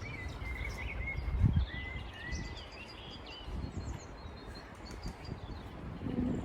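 Small songbirds chirping and singing, short repeated whistled notes over a low outdoor rumble, with a brief low thump about a second and a half in.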